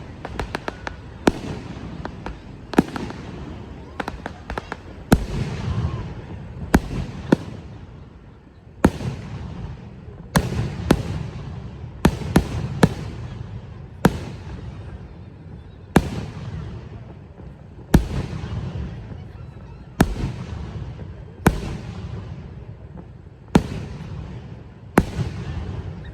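Fireworks going off: a string of sharp bangs, roughly one every one to two seconds, each followed by a fading low rumble.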